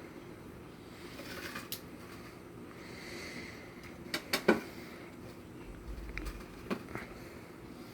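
Kitchen utensils knocking and clinking a few times: three sharp knocks close together about four seconds in and two more near seven seconds.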